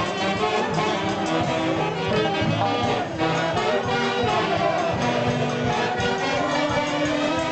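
Live Andean festival orchestra playing with a brass section of trumpets and trombones, at a steady level with held brass notes over a regular beat.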